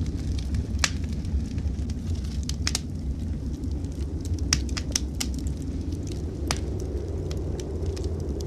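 Wood fire in a fireplace crackling, with scattered sharp pops, over a steady low rumble.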